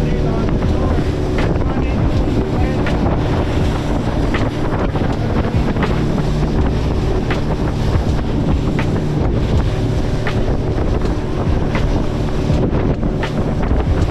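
Wind buffeting the microphone on a small fishing boat at sea, over a steady low hum and water noise.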